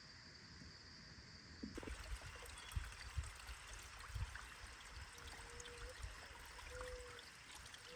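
Trickling water, cutting in sharply about two seconds in as a steady babble of small splashes and drips, after a faint hiss with a thin high tone.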